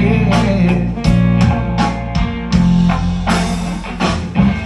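Live band playing an instrumental passage of a rock song between sung lines: guitar over a steady bass and regular drum hits.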